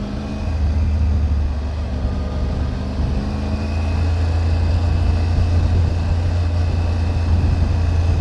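Triumph Tiger 900 GT Pro's inline three-cylinder engine pulling away and running under way, with a deep, steady drone that grows louder in the first second and again about four seconds in.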